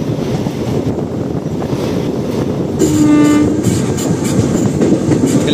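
Moving express train running with a steady rumble, and a single short horn blast about three seconds in.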